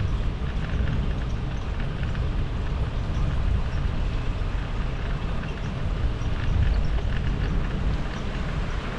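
Steady low rumble of wind buffeting the microphone on a moving bicycle, with faint scattered ticks.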